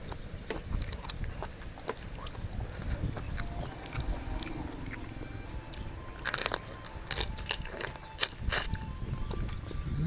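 Close-up eating sounds: biting and chewing fresh seafood from a seafood papaya salad, with several sharp, loud crunches in the second half.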